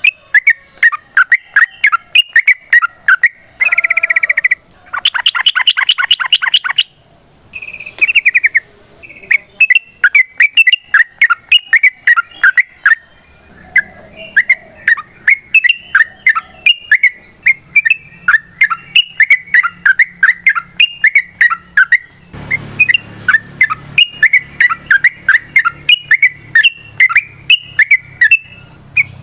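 Yellow-vented bulbul (trucuk) singing a long, rapid chattering song of quick repeated chirps, with fast rolling trills a few seconds in.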